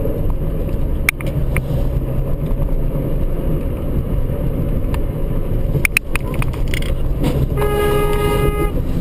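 Steady road and engine noise of a moving vehicle heard from inside, with a few sharp clicks. Near the end a horn sounds for about a second.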